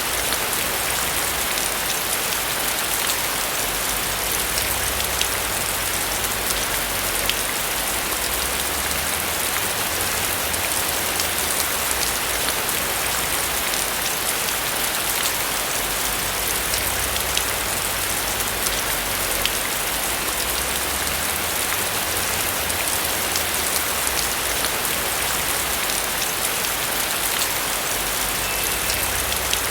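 Steady rain falling on a roof, a dense even patter of drops with many small ticks over a low rumble.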